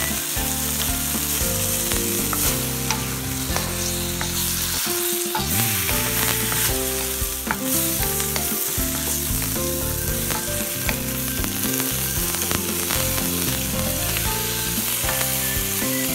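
Chicken, shrimp and onion sizzling in a hot oiled wok while a wooden spatula stirs them, with scattered sharp ticks as the spatula scrapes and taps the pan. Background music with changing low notes plays underneath.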